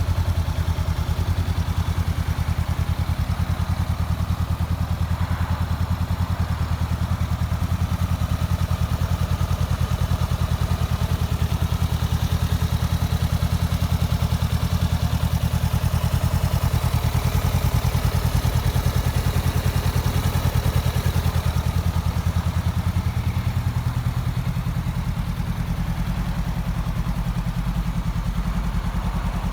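Honda CB500X's parallel-twin engine idling steadily through an aftermarket Fuel carbon exhaust silencer, a fast even pulse of exhaust beats.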